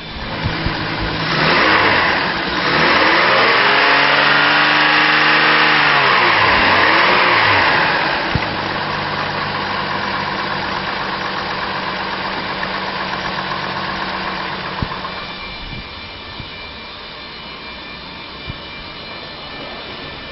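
2005 Chevrolet Trailblazer's 4.2-litre inline-six engine revved up twice and let back down, then idling steadily, a little quieter in the last few seconds.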